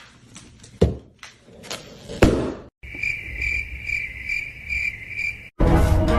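A couple of sharp knocks, then after a cut a steady high-pitched chirping that pulses about two to three times a second, like an insect trill. Music cuts in near the end.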